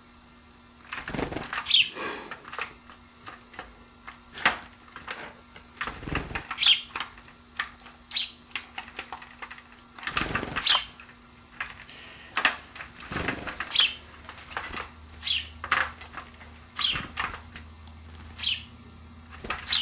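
A pet bird bathing in a water dish, splashing and fluttering its wings in short bouts. It gives a short falling chirp every second or two.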